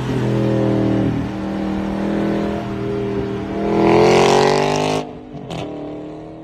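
A car engine running steadily, then revving up about four seconds in before the sound cuts off abruptly; a click and a fading tone follow.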